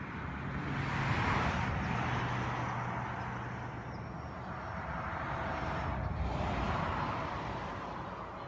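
Two road vehicles passing one after the other, each swelling up and fading away, the first about a second in and the second about six seconds in.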